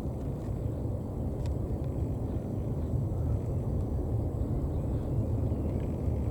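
Low, steady rumbling from the crater of Mount Marapi, an active volcano, with no distinct explosion in this stretch.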